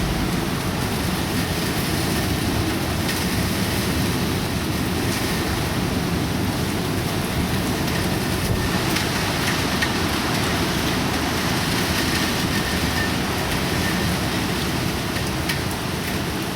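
Heavy typhoon rain, a steady dense rush of noise that keeps up without a break.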